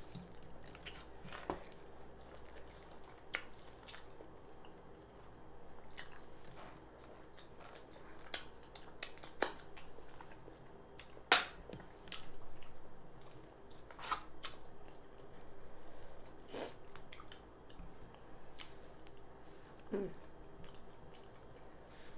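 Close-miked eating: a person chewing soft fufu and egusi stew, with scattered wet mouth clicks and smacks. One sharper click about eleven seconds in is the loudest.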